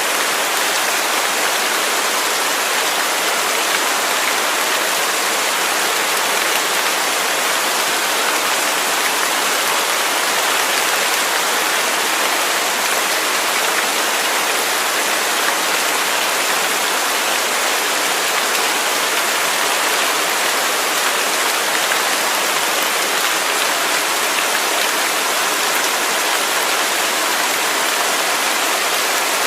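Waterfall: falling water rushing steadily, an even hiss with little low end and no change.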